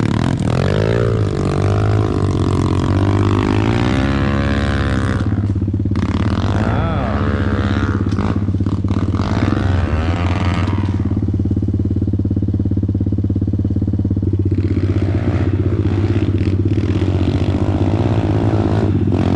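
A dirt bike engine idles steadily close by while a second dirt bike revs up and down repeatedly, its pitch rising and falling as it attempts a hill climb.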